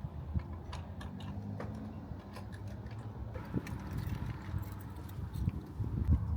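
Bicycle on the move: irregular clicks and rattles over a steady low rumble of wind and tyres.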